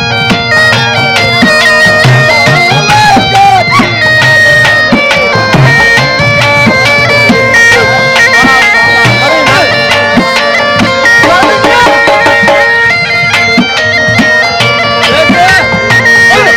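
Saraiki folk song playing: a reedy wind-instrument melody stepping over a steady drone, with a regular drumbeat.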